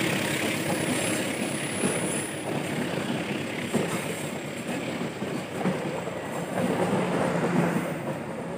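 Passenger coaches of a local train rolling past close by, the wheels clattering over the rail joints.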